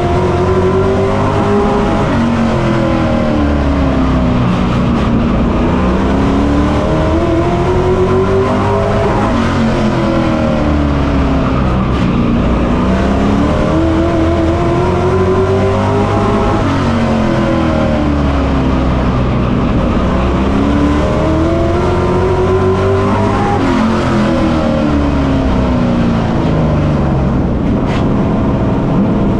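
Short-track Pro Truck race engine heard from on board, working hard under full throttle. Its pitch climbs, then drops back, over and over at about every seven seconds, the cycle of accelerating down each straight and lifting for each turn.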